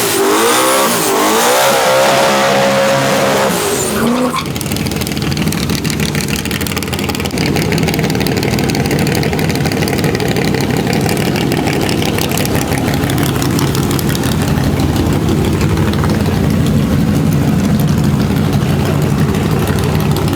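Twin-turbo Coyote 5.0 V8 F-150 drag truck under full throttle, its engine note climbing and stepping back down at each gear shift. The note breaks off about four seconds in, and a steady, lower engine rumble follows as the truck slows.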